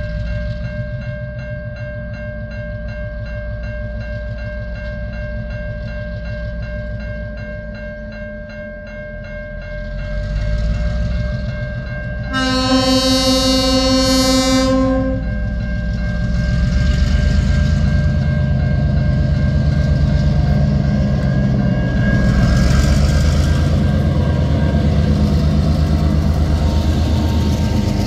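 Level crossing warning bells ringing steadily while two TasRail diesel locomotives running light approach, their engines growing louder. About halfway through, a locomotive horn gives one blast of about two and a half seconds. In the last part the locomotives' diesel engines run loudly as they pass over the crossing.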